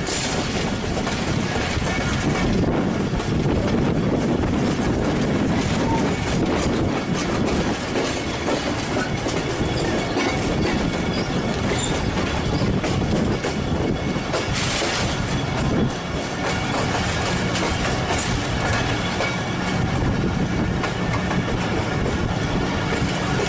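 Moving passenger train heard from an open coach doorway: the steady rumble and clickety-clack of the coach's wheels running over the rails, with a brief hissier stretch about fifteen seconds in.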